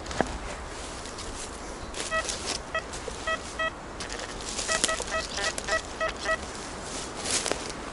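Metal detector beeping as its coil passes over a target: four short beeps about half a second apart, then a quicker run of beeps, over rustling of leaves and ground litter.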